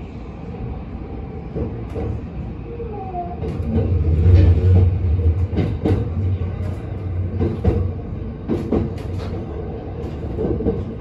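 E657-series electric train running out of Tokyo Station, heard from aboard: a steady low rumble from the running gear, with wheels clicking sharply several times over rail joints and points.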